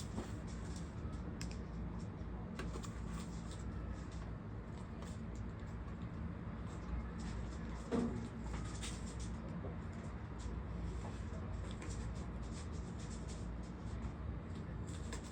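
Light handling noises from laying vinyl floor tiles: many small clicks, taps and scrapes over a steady low hum, with one louder knock about eight seconds in.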